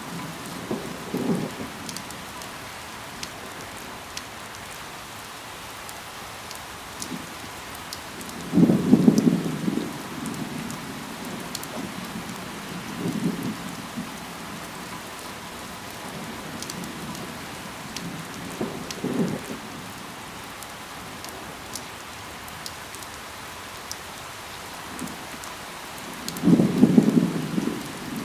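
Steady rain with scattered individual drop ticks. Every few seconds a short, low rumbling burst rises over it; the loudest come about a third of the way in and near the end.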